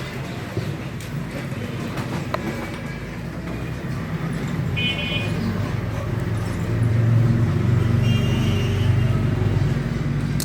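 Road traffic noise, with a heavier vehicle rumble building past about two-thirds of the way in and two short horn toots.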